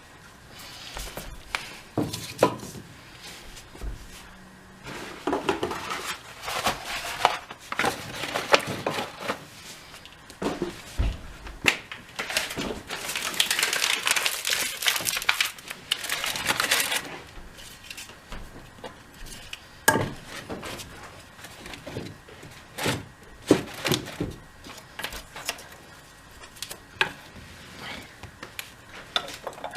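Paper and cardboard rustling and crumpling, with scattered knocks of dry sticks and wood being handled while a fireplace fire is laid. The longest, loudest rustle comes about halfway through.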